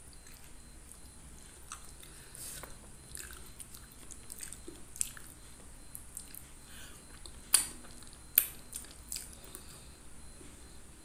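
Close-up mouth sounds of a person chewing fish meat picked from a jumbo fish head, with wet smacks and soft crunches, and two sharp loud clicks about a second apart past the middle.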